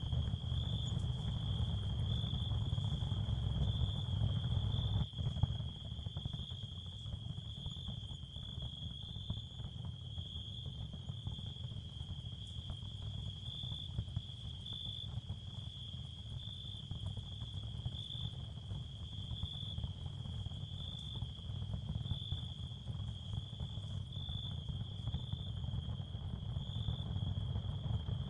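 Ambient sound field for tinnitus relief: a steady high cricket trill over a low rumbling noise bed, with a single click about five seconds in.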